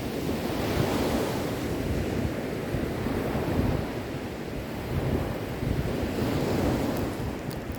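Sea waves breaking and washing on a shore, swelling and easing in a steady low rush, with some wind on the microphone.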